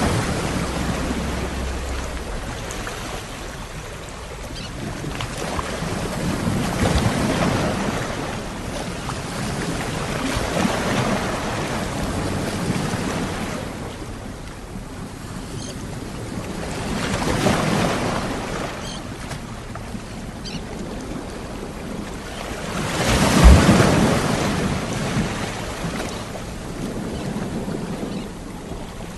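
Sea waves breaking and washing up on a shore, each surge swelling and fading every few seconds, the loudest break about 23 seconds in.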